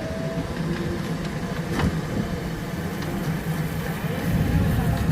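Heavy construction-machine diesel engine running steadily, getting louder about four seconds in, with a single sharp knock about two seconds in.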